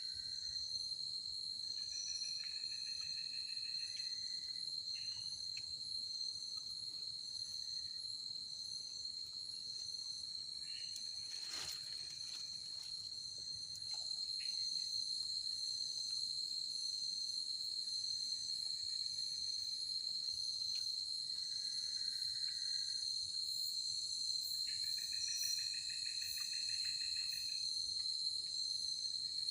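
Forest insects such as crickets trilling in a continuous, high-pitched chorus. A lower, rapidly pulsing call comes and goes twice, and there is a single click about halfway through.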